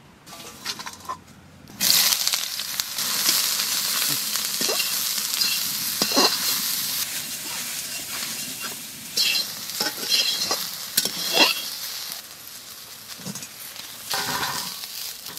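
Food frying in hot mustard oil in a kadai (wok). A sudden loud sizzle starts about two seconds in as the food goes into the oil, then settles to a steady sizzle with a few clicks of a ladle stirring against the pan. It dies down near the end.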